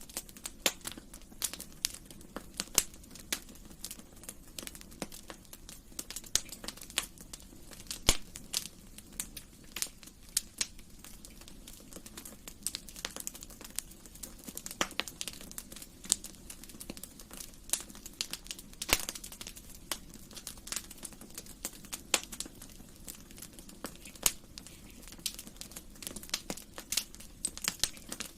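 Wood fire burning in a fireplace: irregular sharp crackles and pops over a low steady hiss of the flames.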